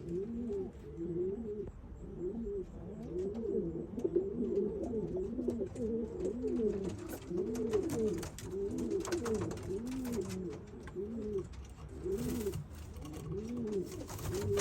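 Several domestic racing pigeons cooing, with rising-and-falling coos overlapping one another continuously, and a few faint rustles mixed in.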